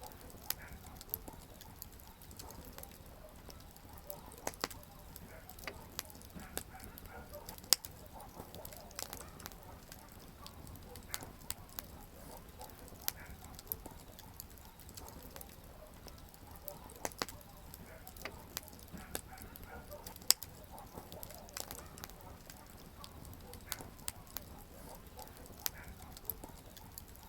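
Wood campfire crackling: sharp, irregular pops and snaps over a faint steady hiss, with two louder pops, about a quarter of the way in and again about three quarters of the way in.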